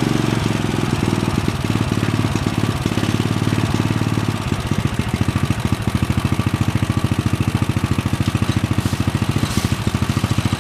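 Riding lawn mower's small engine running. About four seconds in it settles into a slower, fast even pulsing beat.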